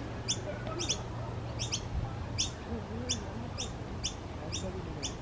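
Noisy miner giving a steady series of short, sharp, high chirps, about two a second, some in quick pairs.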